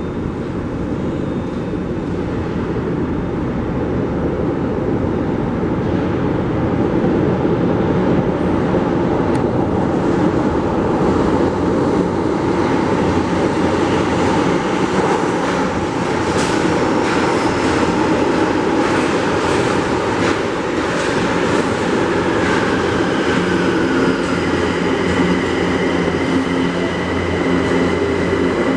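São Paulo Metro train running alongside the platform with a loud, steady rumble that builds over the first few seconds. A run of sharp clicks from the wheels comes in the middle, and a steady high whine sets in near the end.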